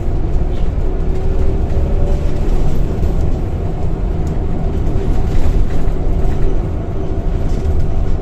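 Scania K230UB bus under way, heard on board: its five-cylinder diesel and ZF automatic gearbox making a steady low rumble with a faint steady whine above it.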